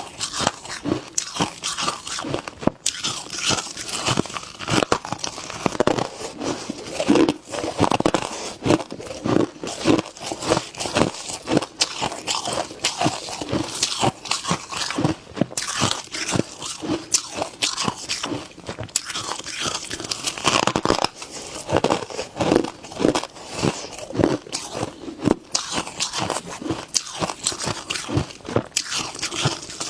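A person biting and chewing freezer frost close to the microphone: dense, crisp crunches, several a second, without a break.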